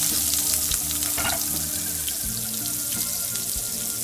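Chopped onion and green chillies sizzling steadily as they fry in hot oil with cumin seeds in a frying pan.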